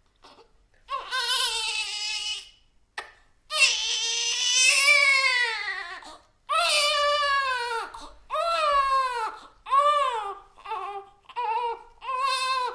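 Baby crying: a series of loud, high-pitched wails with short gasps for breath between them, the longest wail about two and a half seconds, the later ones shorter and quicker.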